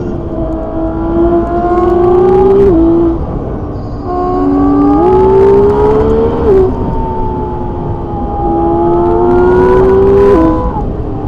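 Car engine heard from inside the cabin, pulling hard uphill: its pitch climbs three times and drops back sharply at each gear change, over a steady low road rumble.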